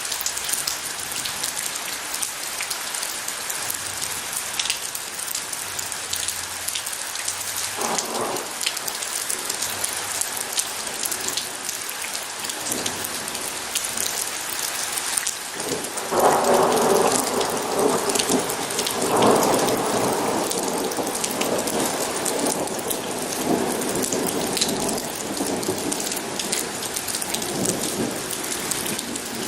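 Steady rain hissing throughout, with a short roll of thunder about a quarter of the way in. A louder, longer thunder rumble starts about halfway, swells again a few seconds later and slowly dies away.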